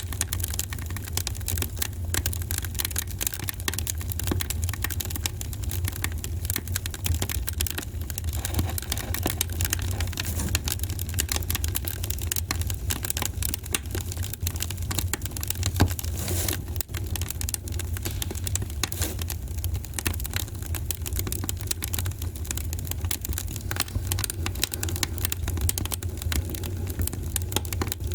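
Wood fire in a fireplace crackling, with many small pops and snaps over a steady low rumble; one louder pop about sixteen seconds in.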